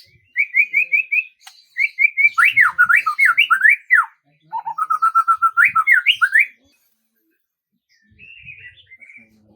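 A songbird singing fast runs of short whistled notes that sweep up and down in pitch. The song stops about six and a half seconds in, and a few faint chirps follow near the end.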